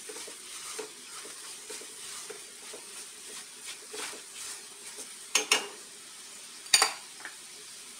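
Onions and ground spices frying in ghee with a gentle sizzle in a nonstick kadhai while a silicone spatula stirs and scrapes through them. Two louder knocks of the spatula against the pan come a little after five seconds and again near seven.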